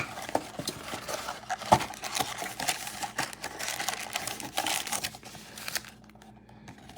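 Rustling, crinkling and small clicks of cardboard and plastic wrapping being torn open and handled as trading-card blaster boxes are unpacked; the noise dies down about six seconds in.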